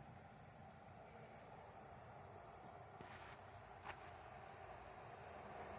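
Near silence with a faint, steady, high-pitched cricket trill, and a single faint tick about four seconds in.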